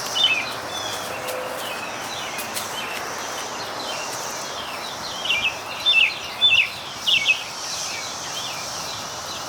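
A steady chorus of periodical cicadas drones without a break, with songbirds calling over it in quick, sharp, downward chirps. The chirps come loudest in a cluster about five to seven and a half seconds in.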